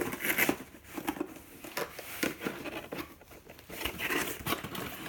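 Box packaging being handled: irregular rustling and crinkling with small clicks and knocks as parts are pulled out of the box.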